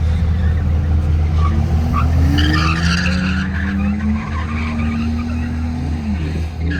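A pickup truck doing a burnout: its engine revs up over a couple of seconds, holds at high revs with the tyres spinning and squealing, then the revs drop near the end, over a steady low rumble.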